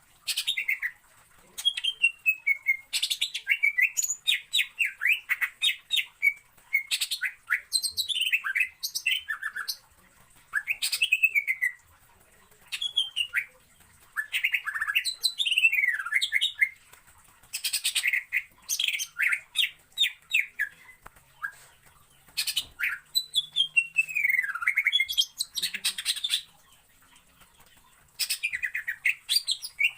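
Cucak ijo (green leafbird) singing in repeated phrases of fast, mostly falling whistled notes and chatter, each phrase a second or so long with short pauses between.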